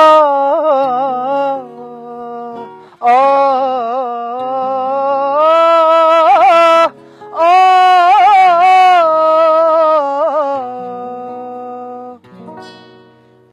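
A voice singing long held wordless notes with a wavering pitch over acoustic guitar, in four drawn-out phrases. It fades out near the end as the song closes.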